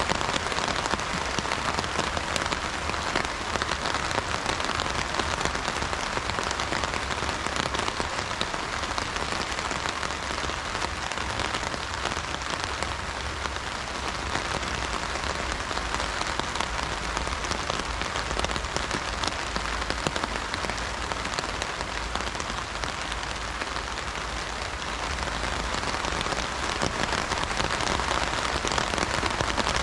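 Steady heavy rain drumming on an umbrella canopy, a dense patter of countless drop strikes, rising and easing slightly in strength.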